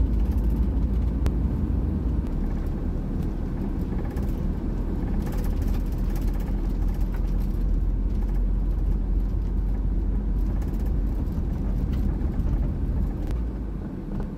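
Old diesel camper van driving, heard from inside the cab: a steady low engine and road rumble that eases slightly near the end.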